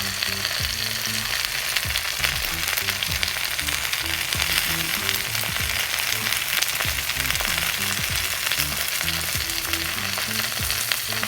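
Tacos, tortillas topped with meat, frying in a pan of hot oil: a steady sizzle thick with small popping crackles.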